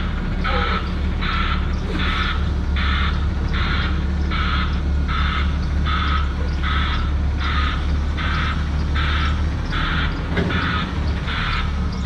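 Truck's reversing alarm pulsing evenly, about three pulses every two seconds, over the steady low hum of a diesel engine.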